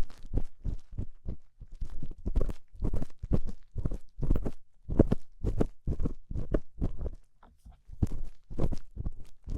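ASMR ear-cleaning on a binaural dummy-ear microphone: rapid scratchy strokes of an ear pick or rubbing in the ear, about three a second, unevenly paced.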